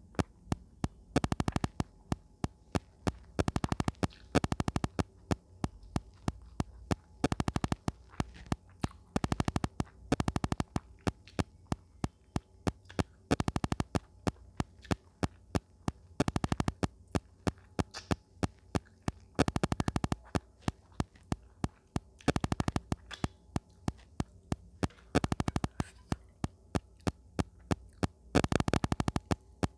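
Close-miked eating: chewing in repeated bouts, each a quick run of mouth clicks, a bout every second or two, over a faint steady hum.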